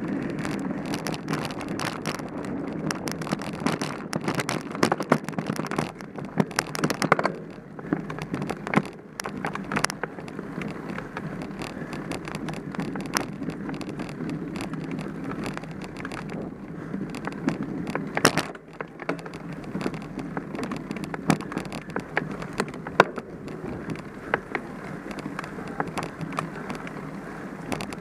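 Mountain bike being ridden over a rough trail: steady tyre and ride noise with frequent rattles and knocks from the bike over bumps.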